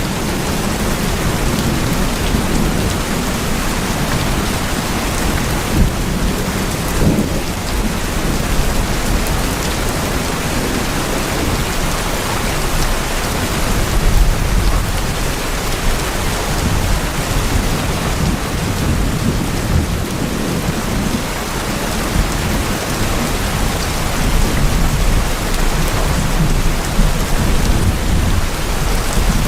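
Steady rain falling on tin-sheet houses: an even, dense hiss of drops on metal with a low rumble underneath.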